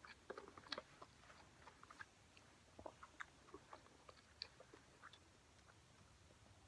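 Faint mouth-chewing sounds mixed with small plastic clicks and taps from a cup lid and straw being handled and fitted on, the clicks thickest in the first second.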